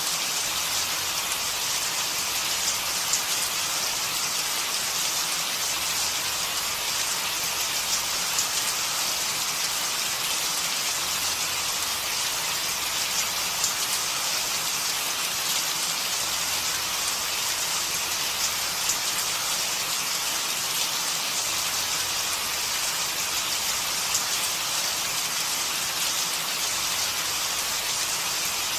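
Steady rain falling on a surface, a dense even patter with occasional louder drops.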